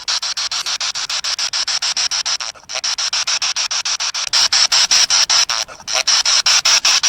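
Spirit box sweeping through radio stations: hissing static chopped into rapid pulses, about nine a second. It breaks off briefly twice and is louder from about four seconds in.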